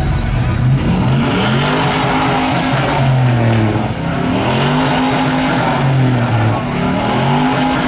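A truck engine revved up and down over and over, its pitch rising and falling in repeated sweeps about once a second.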